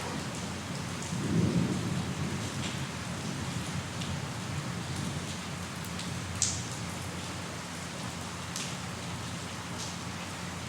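Steady rain falling, with a short low rumble of thunder about a second in and a few sharp, separate drip impacts later on.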